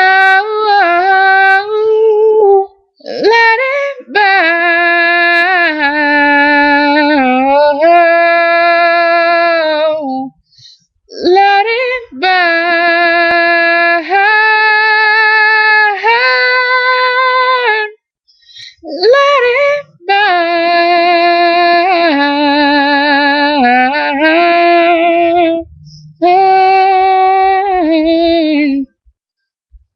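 A female voice singing unaccompanied, in long held phrases with vibrato, each a few seconds long with short breaths between. The singing stops about a second before the end.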